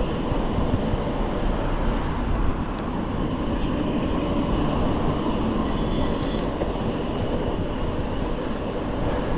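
Steady rush of wind on the microphone and tyre rumble from a bicycle being ridden along a road, heavy in the bass. A brief faint high squeal comes about six seconds in.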